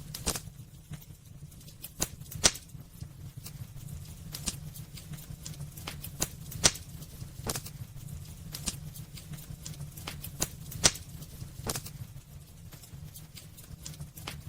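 Wood burning in a fireplace, crackling with irregular sharp pops and snaps over a low, steady rumble of the fire. A few pops stand out much louder than the rest, about two and a half, six and a half, and eleven seconds in.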